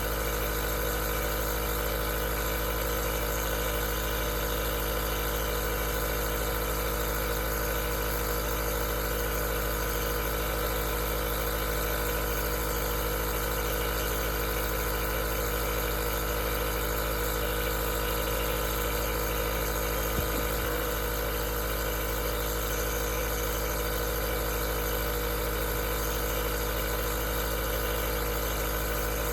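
Aerosol nebulizer's compressor running continuously: a steady motor hum with several fixed tones over an even hiss.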